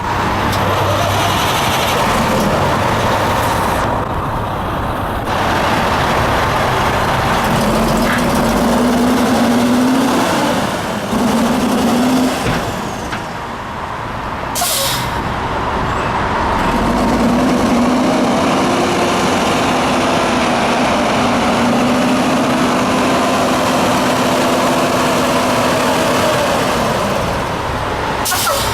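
2003 International dump truck's diesel engine running, its pitch rising and falling as it is revved or driven. A short air-brake hiss comes about halfway through.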